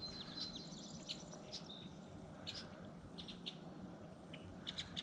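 Small birds chirping and singing in short, scattered calls over a faint, steady low background hum.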